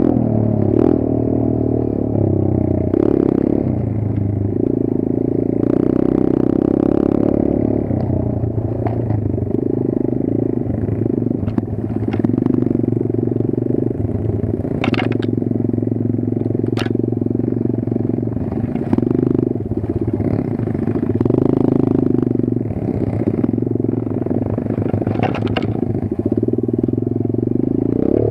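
Kayo 140 dirt bike's single-cylinder four-stroke engine running under load, rising and falling with the throttle, with a few sharp clacks along the way.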